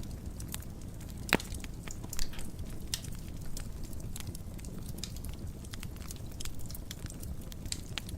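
Wood fire burning in a fireplace: a steady low rumble of flames with irregular crackles and snaps, two louder pops about a second in and about two seconds in.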